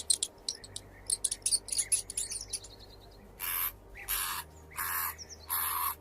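Bird calls: a quick run of high chirps, then four harsh squawks about 0.7 s apart.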